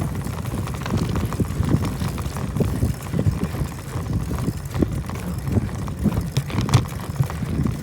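Riding noise from a bicycle on a road: a steady, uneven low rumble with scattered short clicks and rattles.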